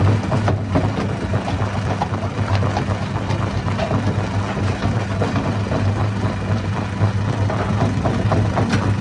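Hammer stone crusher running, with a steady low drone and irregular knocks and cracks of rock being broken throughout.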